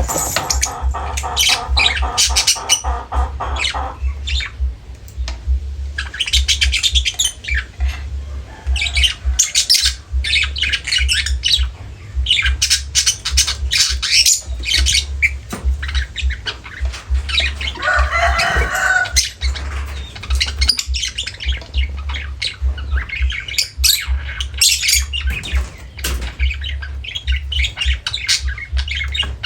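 Pet lovebirds squawking and chirping, with many short, sharp, high-pitched calls in quick succession. A low pulsing rumble runs underneath.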